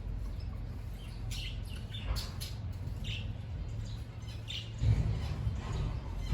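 Cage birds chirping in an aviary: short high chirps in a cluster from about a second in, then another, over a steady low rumble, with a low thump near the end.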